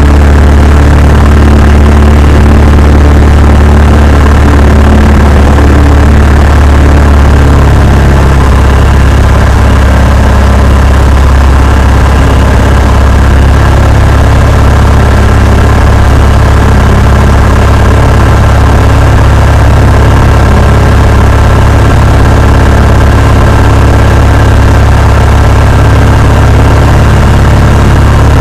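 A Cessna 172's piston engine and propeller running steadily and loudly. About eight seconds in, the engine's low hum shifts slightly higher in pitch.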